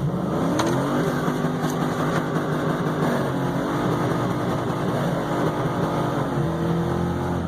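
A Chevrolet Suburban's 5.3-litre V8 revving hard in first gear, held high with its pitch dipping and climbing again twice, as the rear wheels spin in soft snow without getting the truck moving.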